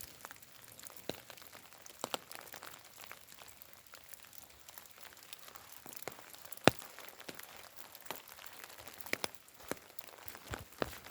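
Light rain falling, a soft steady patter with scattered sharp drop taps close by at irregular intervals, the loudest about two-thirds of the way through.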